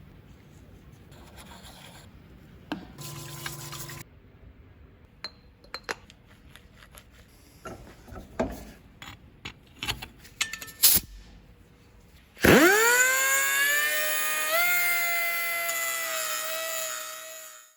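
Scattered clicks and light metal clinks of tool handling, then the air motor of a Nitto Kohki MAG-70 air angle grinder spins up with a quickly rising whine. It runs at a steady high pitch, steps up a little about two seconds later, and cuts off abruptly.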